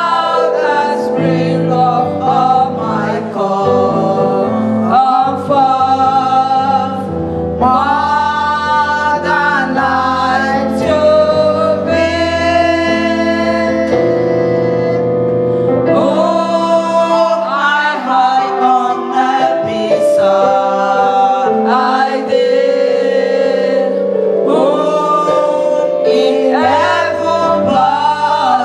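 Choir singing a gospel song with keyboard accompaniment.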